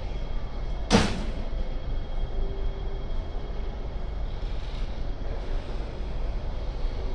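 MTR C-train electric multiple unit pulling out of the platform: a steady low rumble of the train rolling, with one sharp knock about a second in.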